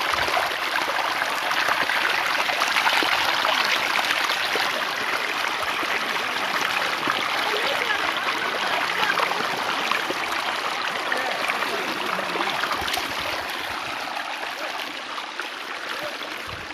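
Water running steadily in a stream, a continuous rushing and trickling that eases slightly toward the end.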